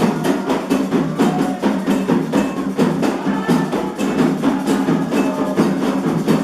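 Candomblé ceremonial music: a fast, steady drumming rhythm with a sharp clacking percussion beat, over voices singing a chant.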